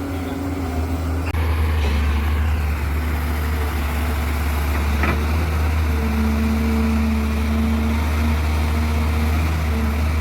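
Diesel engine of mining machinery running steadily with a deep, even hum. It gets a little louder about a second in.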